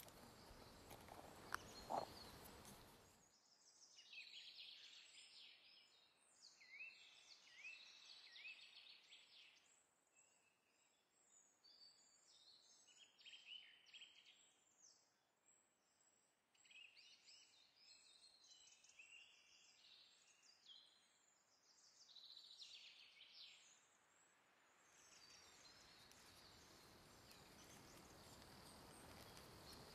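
Faint ambience of small birds chirping and twittering in short, clustered phrases. A soft steady hiss fills out for the first few seconds and again near the end.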